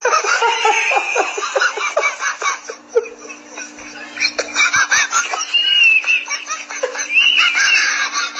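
People laughing and giggling in short high-pitched bursts, with a steady low hum coming in about three seconds in.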